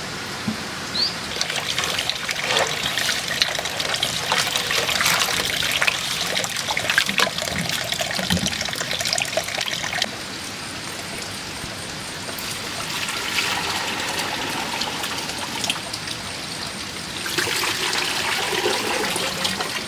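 Water trickling and splashing, with many small irregular splashes and drips, busier through the first half and again near the end.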